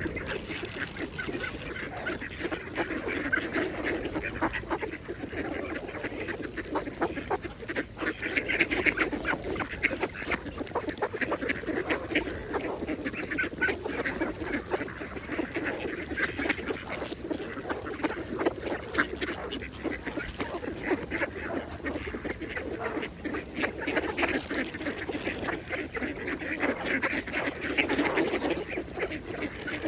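Mallard ducks feeding, a steady mix of quacking and rapid, dense chatter from their bills in the water, a little louder about nine seconds in and again near the end.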